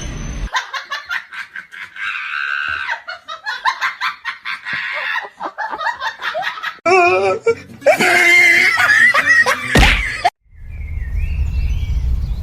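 A person laughing hard in quick repeated bursts, rising into louder, high-pitched shrieking laughter. It cuts off abruptly about ten seconds in, and a steady low rumble follows.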